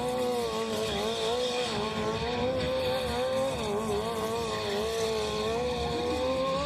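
Motorcycle engine revved hard and held at high revs, its pitch wavering slightly up and down with the throttle.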